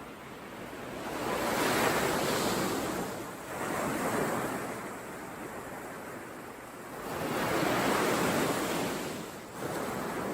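Ocean waves breaking and washing up a shore in slow swells, loudest about two seconds in and again about eight seconds in, with smaller surges between.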